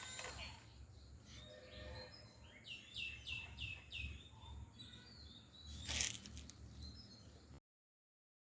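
Faint birdsong: a run of four quick, falling chirps in the middle, over a low steady rumble, with a short crackling noise near the end before the sound cuts off.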